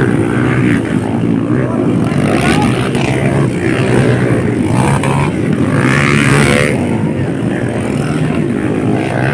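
Dirt bike engines running and revving during a race, several engines overlapping and rising and falling in pitch, with voices mixed in.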